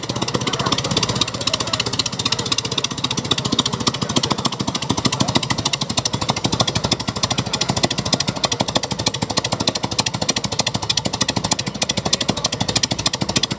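A vehicle engine running steadily with a rapid, even pulsing beat. The level holds constant, with no pass-by.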